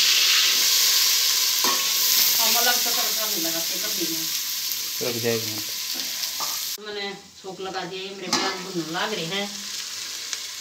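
Chopped onions sizzling as they fry in a steel pot with cumin and fenugreek seeds, stirred with a spoon. The sizzle is loud at first and falls away sharply about seven seconds in.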